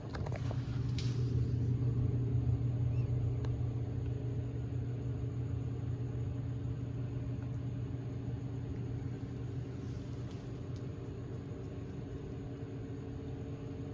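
Low, steady motor-vehicle rumble that swells over the first couple of seconds and then slowly fades, with a few faint clicks near the start.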